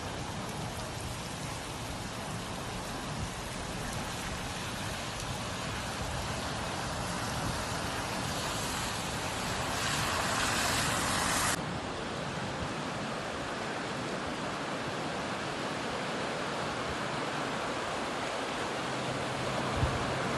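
Steady rushing water noise of rain and run-off. It is a little brighter and louder until an abrupt cut about 11.5 seconds in, and a low steady hum comes in near the end.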